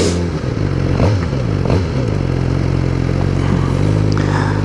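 2015 Suzuki GSX-R 600's inline-four engine running at low speed, its revs dropping about a second in as the bike slows, then holding steady with a slight rise near the end.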